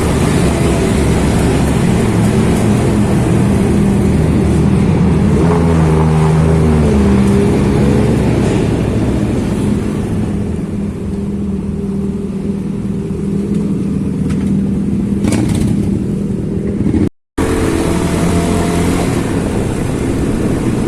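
High-displacement motorcycle engines running steadily inside a road tunnel, with the engine pitch shifting up and down about six seconds in. The sound cuts out for a moment near the end.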